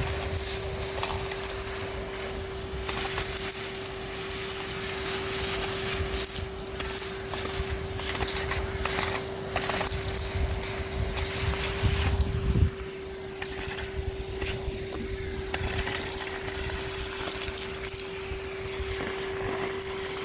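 Henry HVR200-22 cylinder vacuum cleaner running with a steady whine while its nozzle sucks up grit and debris off a street, crackling and rattling. A low rumble cuts off about two-thirds of the way through.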